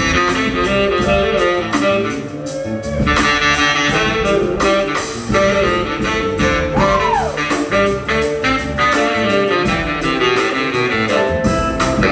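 Live soul band playing an instrumental passage: electric guitar and horns over a steady drum beat, with one note bending up and falling back about seven seconds in.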